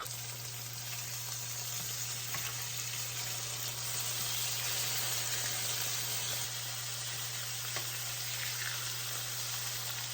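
Chicken pieces frying in a pan, a steady sizzle, over a steady low hum.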